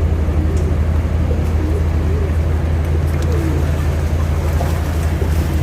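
Tugboat's diesel engine running steadily while towing coal barges against the current: a loud, even, deep drone.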